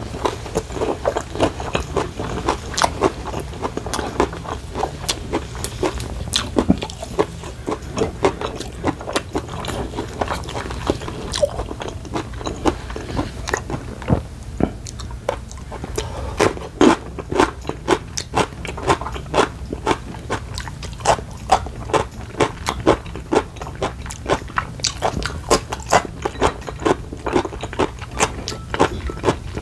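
Close-miked chewing of food with the mouth full: a steady run of quick, sharp mouth clicks, several a second.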